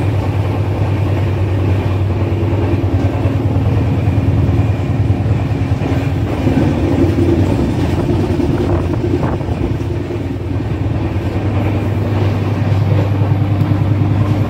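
Train at a station: a locomotive's loud, steady low hum.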